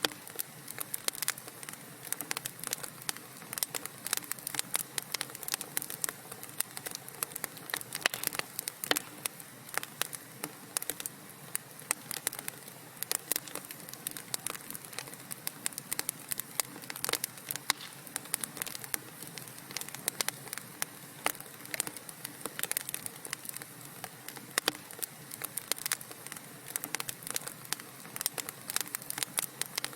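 Wood fire crackling in a fireplace: a soft steady hiss under many irregular sharp pops and snaps, several a second.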